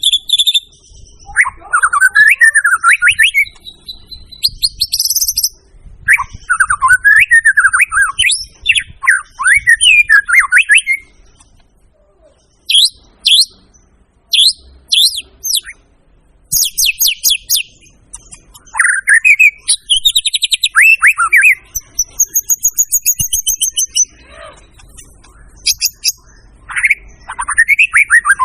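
White-rumped shama (murai batu) singing loudly in separate phrases: rich sweeping whistled notes alternating with fast, high chattering trills, with short pauses between phrases.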